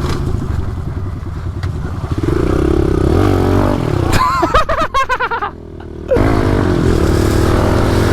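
Pit bike's small single-cylinder engine running under throttle as it is ridden, its pitch rising and falling with the throttle. It drops off briefly about five and a half seconds in, then picks back up to a steady note.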